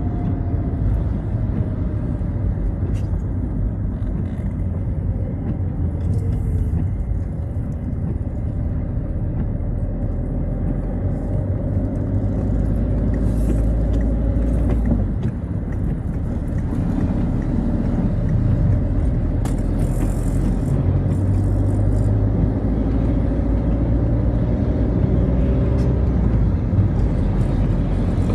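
Citroën Xsara driving on a rain-wet road: a steady low engine and tyre rumble, the engine note falling in the first few seconds and rising again from about halfway, with short hisses of spray now and then.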